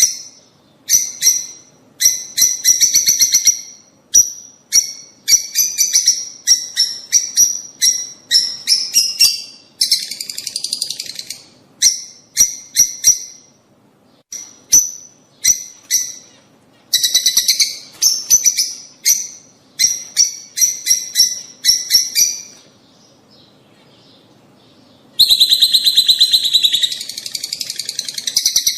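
Lovebirds (peach-faced and Fischer's) calling in bursts of rapid, shrill chirping that stop and start about every second. There is a short lull a little past the middle, then a longer unbroken run of chatter near the end.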